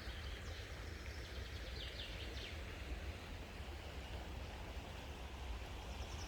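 Small songbirds chirping faintly, with a couple of quick runs of high notes in the first two and a half seconds, over a steady low background rumble.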